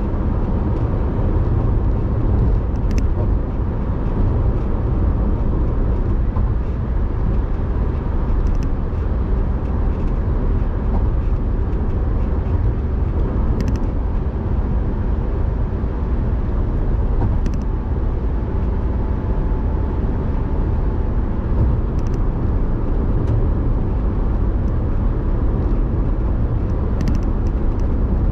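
Car being driven at a steady pace: an even, low rumble of road and engine noise, with a faint steady whine and a few light ticks.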